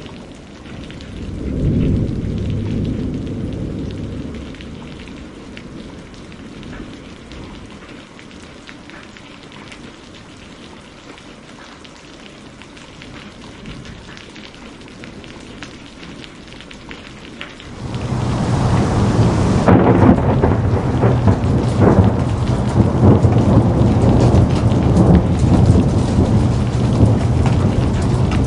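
Thunderstorm: steady rain, with a roll of thunder that swells about two seconds in and fades over a few seconds. Near the eighteen-second mark a much louder, long rumble of thunder sets in suddenly over heavier rain and keeps going.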